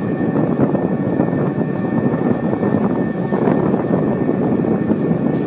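Steady, loud rumble of a car ferry under way, its engines and the rush of air and water running together with a thin steady whine above, and some wind on the microphone.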